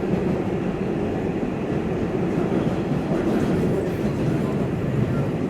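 R142A subway car running through a tunnel, heard from inside the car: a steady, loud rumble of wheels on rail and car noise.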